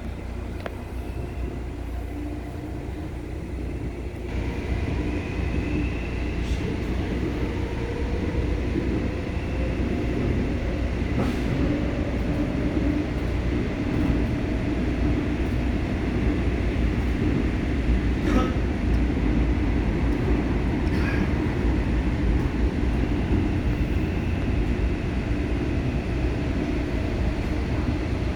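Busan Metro Line 1 subway train running between stations: a steady rumble of wheels on rail that grows louder about four seconds in, with a faint motor whine and a few sharp clicks from the track.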